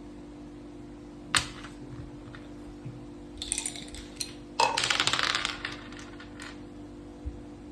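Hard clicks of playing pieces and a rattling clatter of dice in a mak saka game. There is a single sharp click about a second and a half in, and a louder rattle lasting about a second past the middle.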